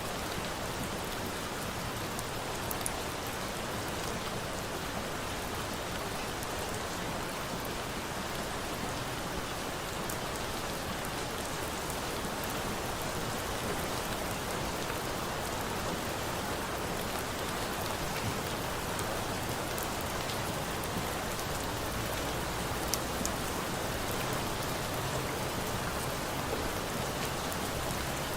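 Steady rain falling on a surface, an even hiss with a few sharp ticks standing out.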